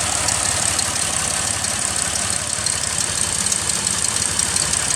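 2005 Toyota Highlander's V6 engine idling steadily under an open hood. The engine is throwing misfire codes (cylinder 2, now cylinder 6); at idle it runs okay, and the owner, who suspected an intake leak, says it doesn't sound like one.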